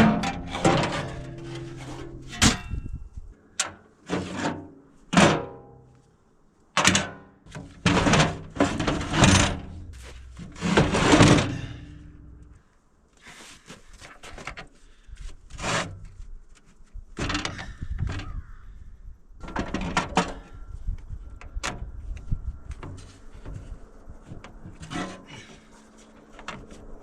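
Irregular heavy thunks, knocks and crunching scrapes, thick for the first dozen seconds and then fewer and fainter: heavy truck batteries being hauled and set into place, with snow being worked around them.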